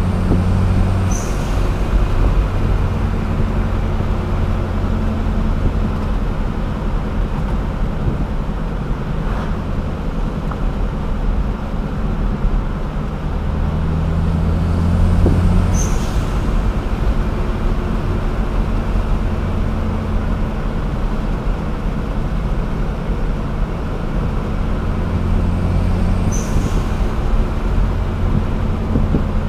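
Dodge Caliber SRT4's turbocharged 2.4-litre four-cylinder engine and tyre noise inside the cabin while driving, the engine swelling under throttle several times, strongest about halfway through. A brief sharp hiss comes three times, each just as a pull ends.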